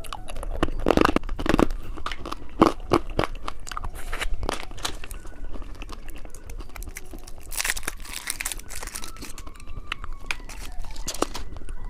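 Close-miked eating of candy snacks: repeated crunching bites and chewing. A rustle of crinkling packaging comes about eight seconds in.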